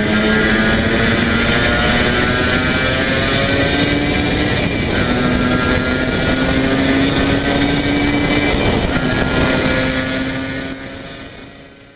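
Yamaha TZR250 1KT two-stroke parallel-twin engine running at high revs, its pitch holding fairly steady with slight rises, then fading out near the end.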